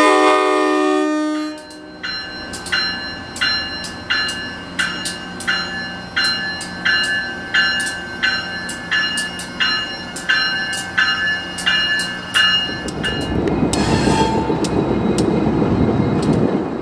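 An AEM-7 "toaster" electric locomotive's horn sounds a chord for about a second and a half, then a bell rings steadily at about one and a half strikes a second. About thirteen seconds in, the rumble and rush of the train passing swell up and hold.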